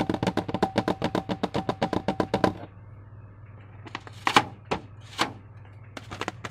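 Slime being squished and worked by hand: a fast run of wet clicks, about nine a second, for roughly two and a half seconds, then three or four single popping crackles.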